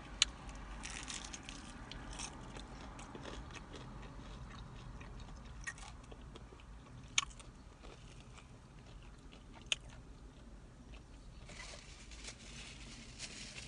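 Close-up biting and chewing of crispy fried chicken dipped in honey, with three sharp mouth clicks or crunches among the softer chewing.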